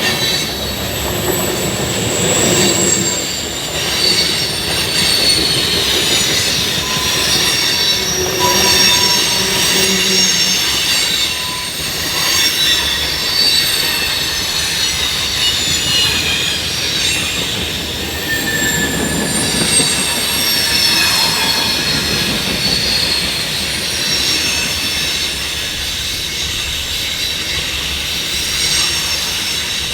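Train rolling past, its wheels squealing against the rails in several high, wavering tones that come and go over the steady rumble of the cars.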